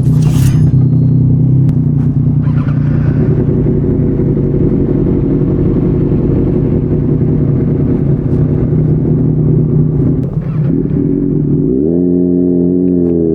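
Kawasaki ZX-6R 636's inline-four engine with an SC Project slip-on exhaust idling steadily while warming up, then rising in pitch near the end as the revs come up and hold briefly.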